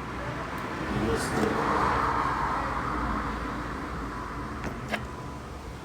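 A road vehicle going past: a rushing noise that swells over the first two seconds and slowly fades. A sharp click sounds near the end.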